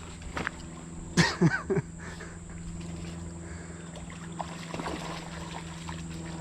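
A dog splashing and wading in a shallow creek, with a loud burst of three quick splashes about a second in over the creek's faint trickle.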